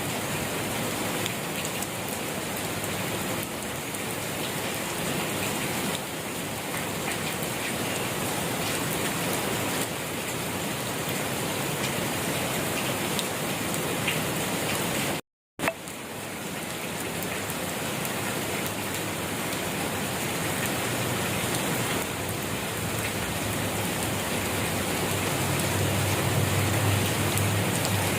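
Steady rain falling, an even hiss of drops on surfaces. The sound cuts out completely for a split second about halfway, and a low rumble swells near the end.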